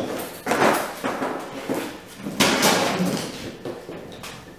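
Large cardboard shipping box being handled: a click, then two spells of scraping and rustling, with a weaker one near the end.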